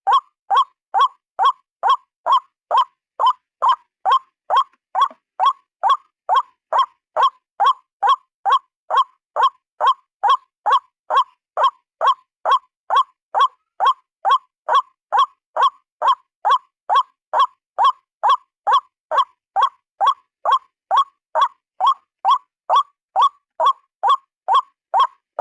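White-breasted waterhen (ruak-ruak) calling a single short note over and over at a steady pace of a bit over two notes a second, without a break.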